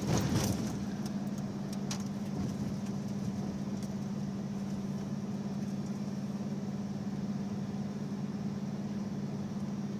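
Steady low hum of a vehicle engine running, with no change in speed.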